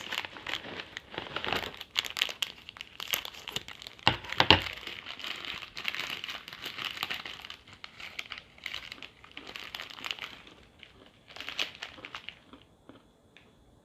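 Plastic snack bag of Munchies peanuts crinkling and crackling as it is handled and opened, with a louder sharp burst about four seconds in, dying down near the end.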